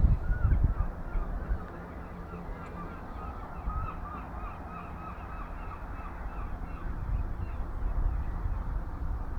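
A bird calling in a rapid run of short repeated notes, a few a second, fading out in the latter part, over a low rumble that is loudest at the start.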